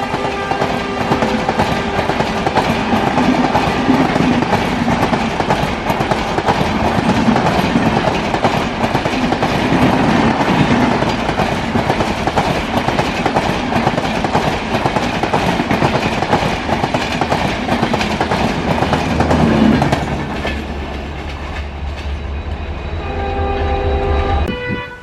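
Diesel-hauled express train running past at speed: coach wheels clatter over the rail joints in a loud, steady rush. About 20 seconds in the rush fades and a low, steady diesel drone takes over, and a chord-like train horn sounds shortly before the sound cuts off.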